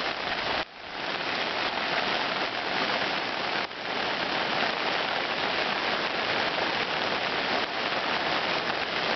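Steady hiss of hurricane rain, with the sound of a flooded stream, briefly dropping away about a second in and again near four seconds.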